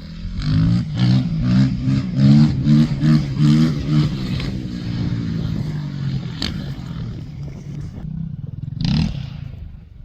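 Motorcycle engine revved in quick repeated blips, about two a second, for the first four seconds, then running more steadily, with one more short rev near the end.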